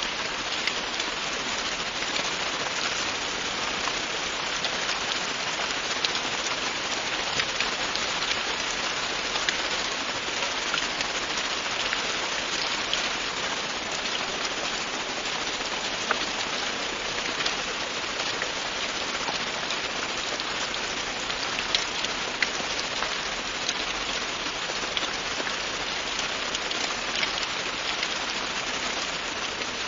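Steady rain falling, a dense even hiss with many small drop ticks hitting a surface.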